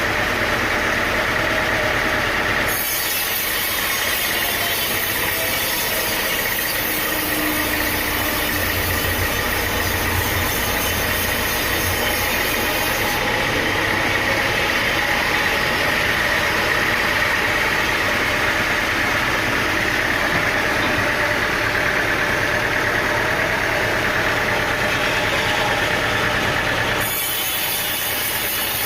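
Sawmill machinery running steadily: an engine with a saw running through timber. The sound changes abruptly about three seconds in and again near the end.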